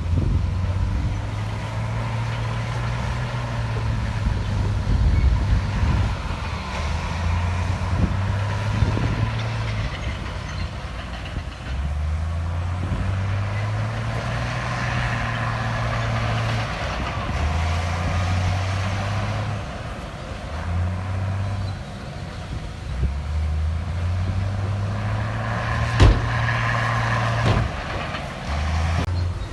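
Heavy diesel machinery engine running, its low drone stepping up and down in pitch as the load changes, with a sharp knock about 26 seconds in.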